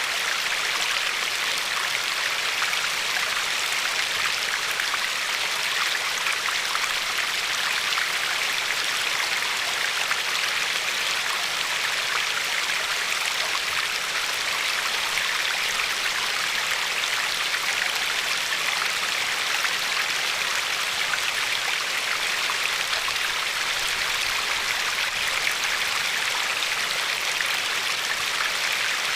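River water flowing and lapping along a pebbly shore: a steady rush with fine, grainy splashing, strongest in the upper range.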